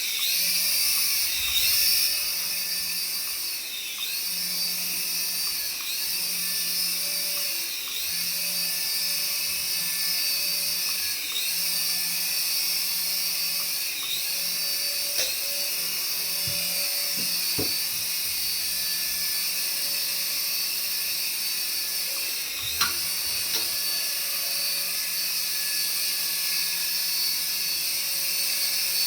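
High-pitched whine of a small electric toy motor running steadily, its pitch dipping and recovering about every two seconds at first, then holding even. There are a few faint clicks.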